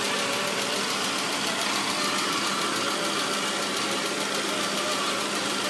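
Saab 9-5 engine running steadily with a cat-like whine, a thin, slightly wavering tone that fades in the middle and comes back near the end. The cause of the whine is unknown to the owner.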